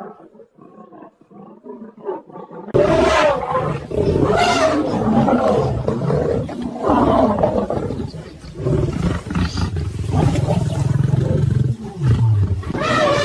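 A pride of lions roaring and snarling, loud and continuous, starting about three seconds in after a quiet opening.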